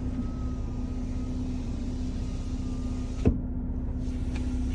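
Mercedes E300 right rear power window motor whining as the glass travels, stopping with a sharp clunk about three seconds in as it reaches its stop; a steady low hum continues underneath.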